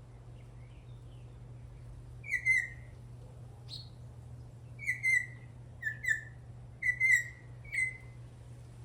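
Venezuelan troupial singing: loud whistled phrases that drop in pitch, about five of them from a couple of seconds in, over a steady low hum.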